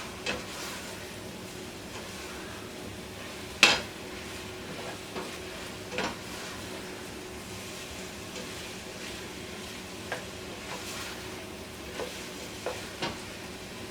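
Onions and sliced mushrooms sizzling steadily in butter in a pot while being stirred, with occasional sharp knocks of the stirring utensil against the pot, the loudest a few seconds in.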